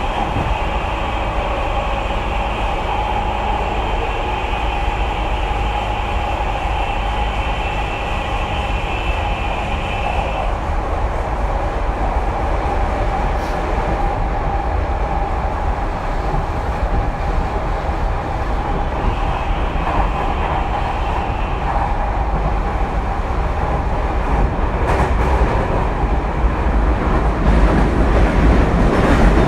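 Tokyu 2020 series electric train heard from inside the car while running: a steady rumble of wheels on rail. A high steady whine holds for about the first ten seconds and returns briefly around twenty seconds in, and the running gets louder near the end.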